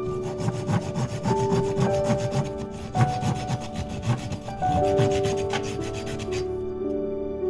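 A saw cutting through wood in quick, repeated rasping strokes, stopping about six and a half seconds in. Soft music with held notes plays underneath throughout.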